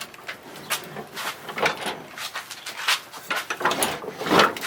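Irregular clicks, knocks and scrapes of hands and tools working on mower parts, with no engine running.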